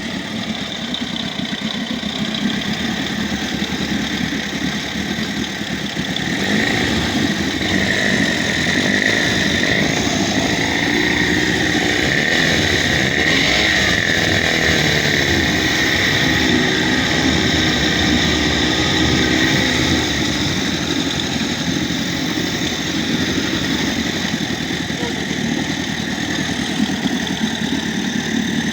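Moskva-12 engine running on a motorcycle carburettor. It steps up and runs louder about six seconds in, its pitch wavers up and down through the middle, and it eases back a little near twenty seconds.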